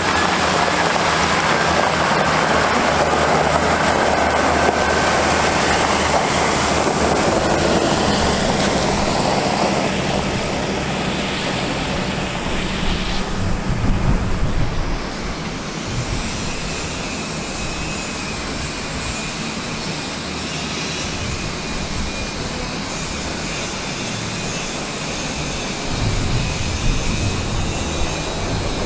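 Cummins ISB 6.7L diesel engine of a 2009 Ford F750 water truck running, with a steady rushing noise over it. About halfway through the sound swells briefly, then turns quieter and rougher, and it rises again near the end.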